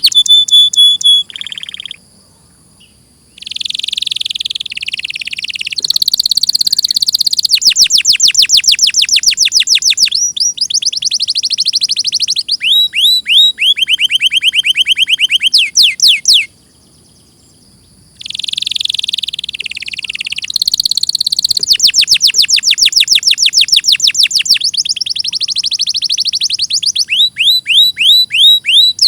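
Domestic canary singing a long, loud song of fast rolling trills, each a quick run of repeated high sweeping notes, broken by two short pauses, about two seconds in and in the middle.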